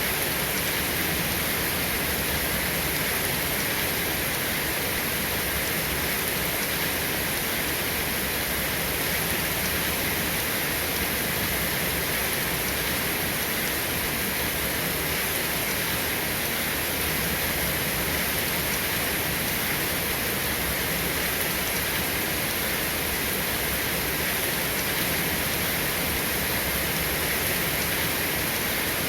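Steady rain falling: an even, unbroken hiss with no separate drops standing out and no thunder.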